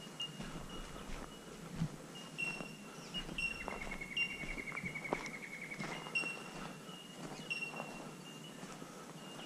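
Footsteps on a grassy dirt track, with birds calling: a short high note repeated over and over, and a rapid trill lasting about two seconds starting nearly four seconds in.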